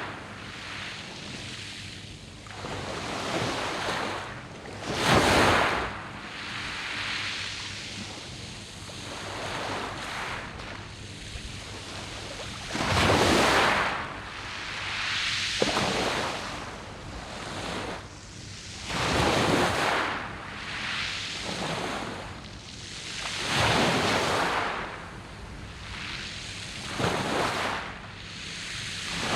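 Sea waves breaking on a beach of round mongdol pebbles, surging in and washing back over the stones. The hiss rises and falls, with a louder surge every few seconds.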